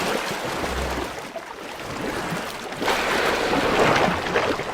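Sea water sloshing and splashing at the surface, as a steady rushing noise that grows louder about three seconds in.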